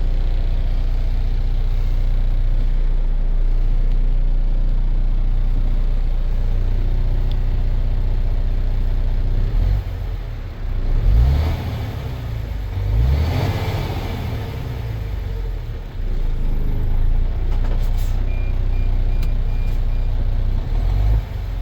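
MAN TGX 18.500 truck's six-cylinder diesel engine idling steadily, then revved several times from about ten seconds in, its pitch rising and falling with each rev.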